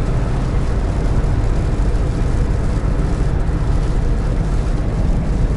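Steady engine and road noise heard from inside the cab of a GAZelle Next van while driving, an even low rumble.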